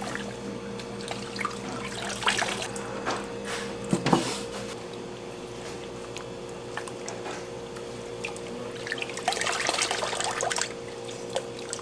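Water running and splashing in a kitchen, with scattered clicks and clatter and a louder splashing stretch about nine seconds in, over a steady two-tone machine hum.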